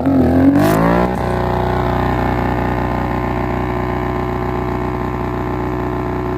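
Kawasaki ZX-10R inline-four superbike engine through an SC Project aftermarket exhaust, loud: revved up and down for about a second, then held at steady high revs for about five seconds.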